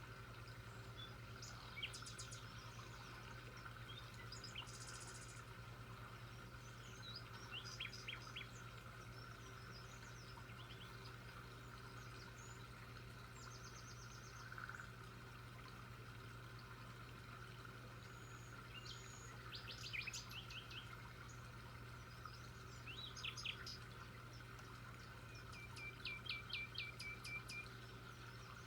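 Birds chirping faintly and now and then, in short calls and quick trills, over a steady low background hum.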